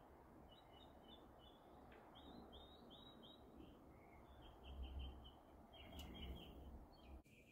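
Faint strings of short, quick high chirps from small birds, repeated throughout, with a low hum swelling briefly twice in the second half.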